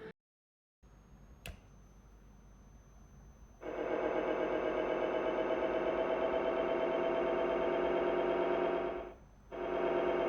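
Synthetic electric-vehicle acoustic alerting (AVAS) warning sound from a loudspeaker: after a faint click, a steady buzzing hum with many overtones and a slight warble starts about three and a half seconds in. It cuts out briefly near the end, then resumes.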